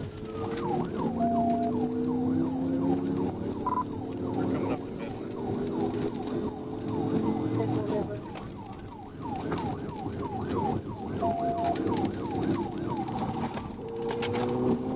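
Police car siren on a fast yelp, a short falling sweep repeated about three times a second, shifting to a quicker warble near the end. Under it the patrol car's engine accelerates hard in pursuit.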